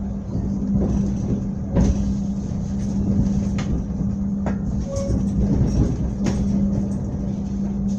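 Inside a passenger train carriage rolling slowly: a steady low hum with running noise, and a few sharp knocks about two, three and a half, four and a half and six seconds in.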